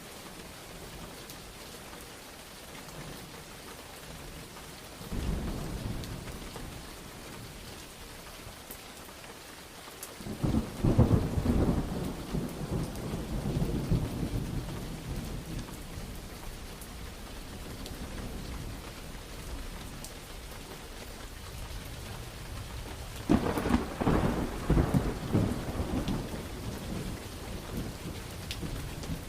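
Steady rain falling through a thunderstorm, with thunder rolling in three times: a short rumble about five seconds in, a long loud roll starting about ten seconds in that fades over several seconds, and another loud roll near the end.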